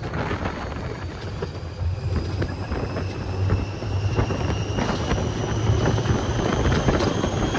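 Theme-park ride vehicle running: a low rumble and clatter under a motor whine that rises slowly and steadily in pitch.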